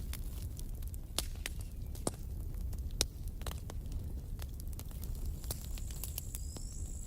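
Campfire crackling: a steady low rumble of burning wood with many sharp pops and snaps, the loudest about a second, two seconds and three seconds in. A faint high thin whistle comes in near the end.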